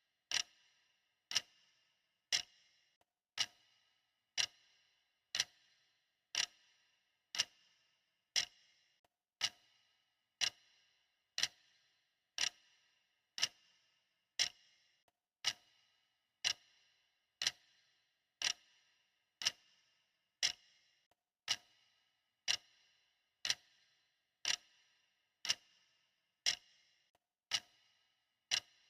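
Clock ticking steadily at about one tick a second, each tick a sharp click with a brief bright ring.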